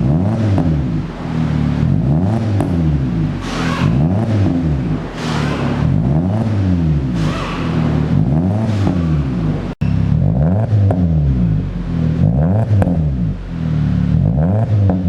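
Chevrolet Cruze 1.8 petrol four-cylinder revved again and again through a custom single exhaust with a deep mid-low note, the pitch rising and falling roughly once every second and a half. A brief dropout about ten seconds in.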